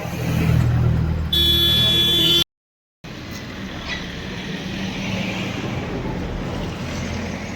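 A motor vehicle's engine rumbles, then a horn blares for about a second. The sound cuts out abruptly, and steady road traffic noise follows.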